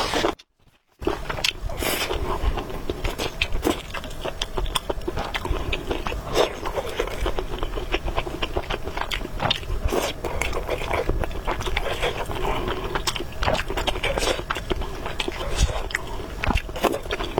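Close-miked eating of noodles: steady chewing and biting with many short, wet mouth clicks. There is a brief gap of near silence about half a second in.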